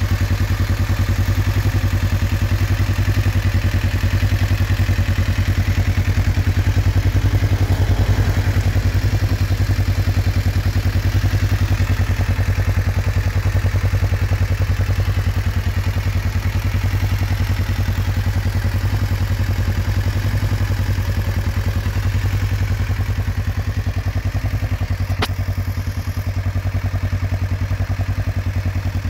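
Kawasaki EN500's liquid-cooled parallel-twin engine idling steadily, with a single sharp click near the end.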